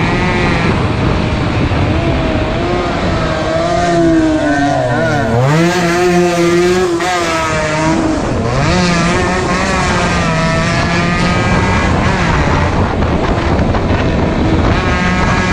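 Two-stroke motorcycle engines running hard at race speed. The pitch climbs and drops several times as the bikes rev up and back off, with the sharpest dip and climb about five seconds in and another near eight seconds.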